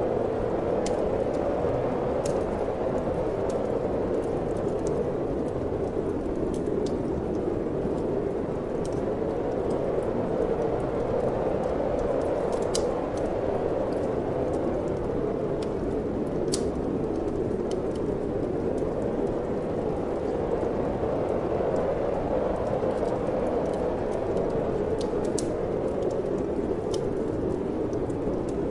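Wood fire crackling in a fireplace over a steady rush of wind, with scattered sharp pops every few seconds.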